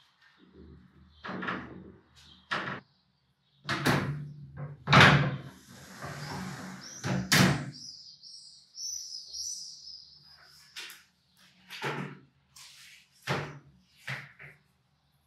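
Sliding glass balcony panels being pushed along their track, giving a series of knocks and bangs with some scraping, and a brief high-pitched squeal near the middle.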